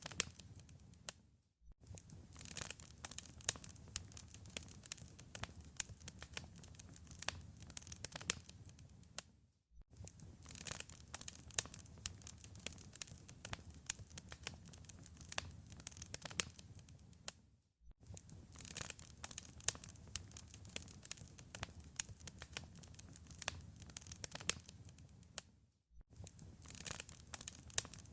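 Fireplace fire crackling: a dense run of irregular sharp pops and snaps over a low steady rumble. It drops out briefly about every eight seconds.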